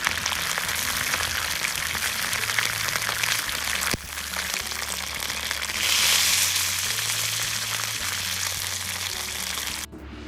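Dense crackling and sizzling from a campfire cooking setup, with soft background music underneath. The sound changes abruptly about four seconds in and again near the end, and swells briefly around six seconds.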